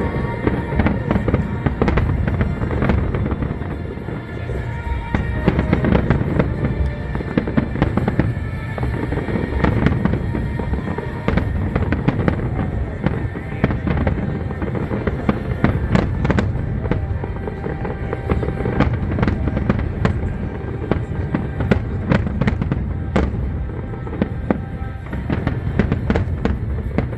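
Fireworks display: dense, continuous bangs and crackling from bursting aerial shells, with music playing underneath.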